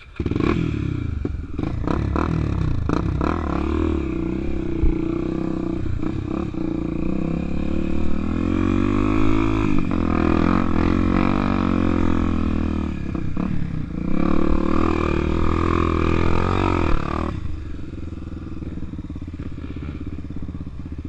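Enduro motorcycle engine revving hard under way, its pitch rising and falling repeatedly with the throttle and gear changes. It cuts in loudly at the start and eases to a lower, steadier running sound about three-quarters of the way through.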